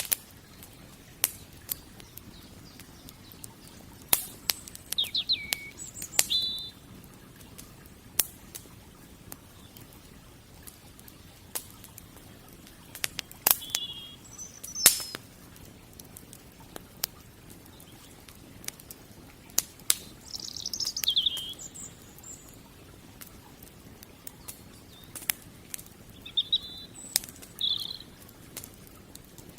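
Wood fire crackling, with sharp pops at irregular intervals, while birds chirp in short, high calls now and then.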